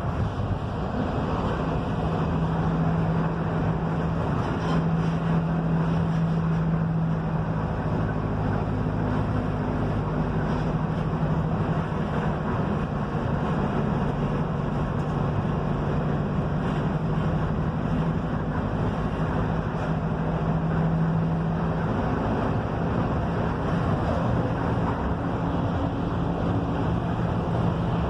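Mercedes-Benz OF-1721 bus diesel engine running under way, a steady drone with road and wind noise. Its pitch shifts slightly about three-quarters of the way through.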